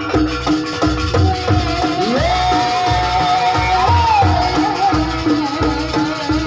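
Live Javanese traditional dance music: pitched percussion strikes repeating evenly over drum beats and rattling percussion. A long melodic line slides up about two seconds in, holds, then wavers and falls away near four seconds.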